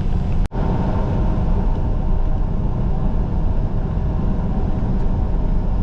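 Steady engine and road rumble of a semi truck cruising on the highway, heard from inside the cab, with a faint steady engine hum. The sound cuts out for an instant about half a second in.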